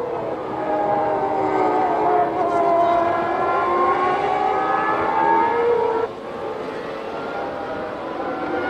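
1996 Formula One car engine running at high revs, its pitch dipping and then climbing again. The sound drops abruptly to a quieter engine note about six seconds in.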